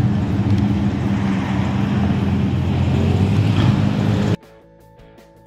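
1967 Corvette Stingray's L79 327 V8 running steadily through its dual side-pipe exhausts as the car drives by, a deep, even exhaust note. It cuts off abruptly about four seconds in, leaving faint background music.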